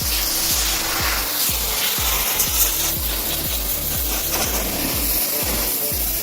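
A steady rasping noise of a brush scrubbing a dirty truck, over background music with a regular bass beat.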